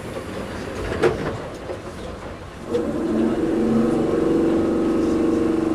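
Toyohashi Railway 1800-series (ex-Tokyu 7200) resistance-controlled electric train heard from inside the car: a quiet stretch with a single clunk about a second in, then about two and a half seconds in the traction motors start up loudly with a steady multi-tone hum as the train pulls away from a stop.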